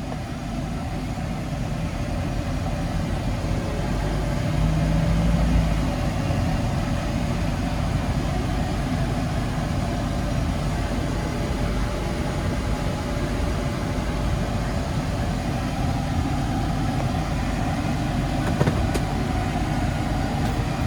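Kia Bongo 3 cargo truck driving on a test drive, its engine and tyres making a steady low rumble that grows louder for a moment about five seconds in.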